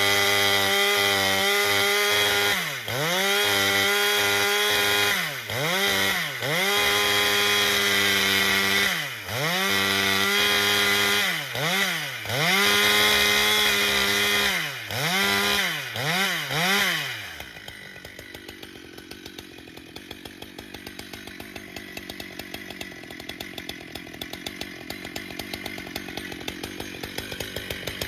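Husqvarna two-stroke chainsaw at high revs, its pitch dropping sharply and recovering again and again as it is loaded in the cut or let off the throttle. About two-thirds of the way through it falls back to a much quieter, fast-ticking idle.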